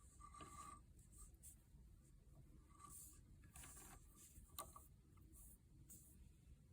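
Near silence with faint scratchy handling rustles and a small sharp click about four and a half seconds in.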